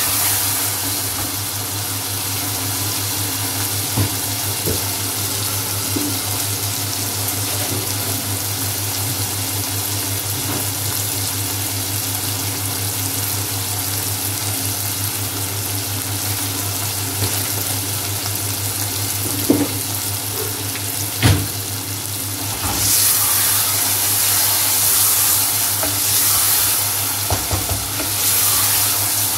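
Minced chicken keema sizzling as it fries in oil and tomato in a metal pot, stirred with a wooden spoon that knocks against the pot a few times. The sizzle grows louder about three quarters of the way through, over a steady low hum.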